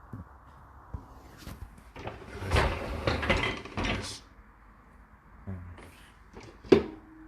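Dishwasher being loaded: items clattering into the racks and a rack rattling on its runners, with the densest clatter about two to four seconds in and a single sharp knock near the end.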